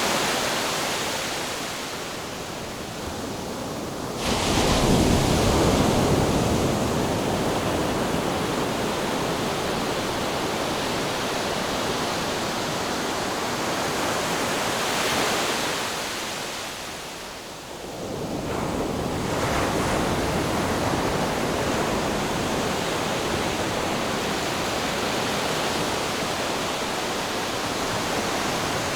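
Ocean surf: a continuous rush of breaking waves that swells sharply louder about four seconds in, then eases, falls away briefly past the middle and builds up again.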